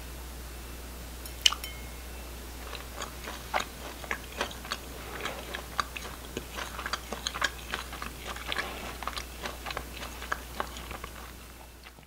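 Close-up crisp, irregular crunching and clicking, as of seasoned roasted laver (gim muchim) being chewed. It is preceded by a single sharp clink with a short ring, and the crunching thins out and fades away near the end.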